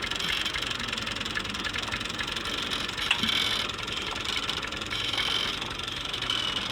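A vehicle engine idling steadily with an even, fast chugging beat, with one short clack about three seconds in.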